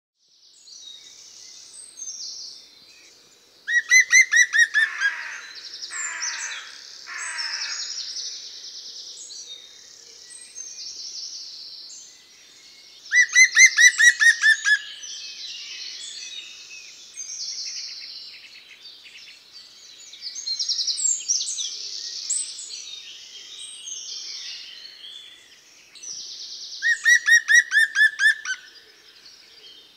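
Songbirds singing: a constant chatter of high chirps. Three times, about ten seconds apart, a loud rapid string of repeated notes stands out, and the first is followed by three falling notes.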